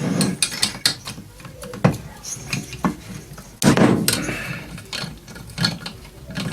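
Metal tools and engine parts clinking and knocking in a run of short sharp clicks, with a louder clatter about four seconds in, as a small two-stroke mini-bike engine is taken apart.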